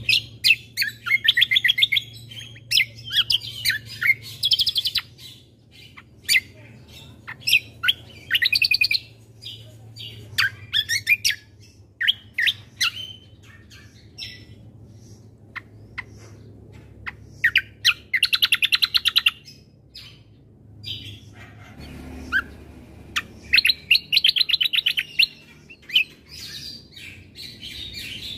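Kecial kombo (cucak kombo) songbird singing: phrases of fast, chattering trills and sharp chirps, repeated in bursts with short pauses between them.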